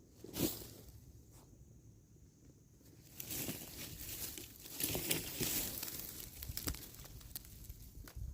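Footsteps crunching and rustling through dry leaves and brush, starting about three seconds in and going on irregularly, after a single soft knock less than a second in.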